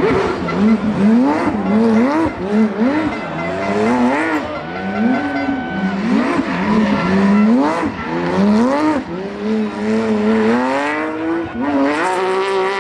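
Rally car engine revved hard, its pitch climbing and dropping about once a second as the driver works the throttle and gears, then rising in one long pull near the end.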